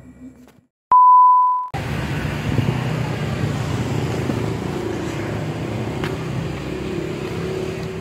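A loud, pure electronic beep, about a second in and lasting under a second, inserted at an edit. It is followed by a steady background of street noise with traffic.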